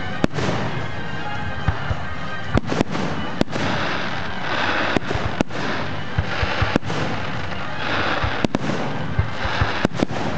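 Fireworks display: shells bursting in irregular, sharp bangs, with stretches of dense crackling from crackle-effect stars several times through.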